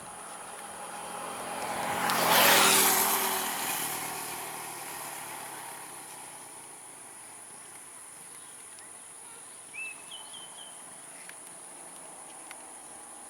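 A motor vehicle drives past, its engine and tyre noise swelling to a peak about two and a half seconds in and then fading away over the next few seconds. A steady high insect buzz runs underneath, and a short bird chirp comes near the end.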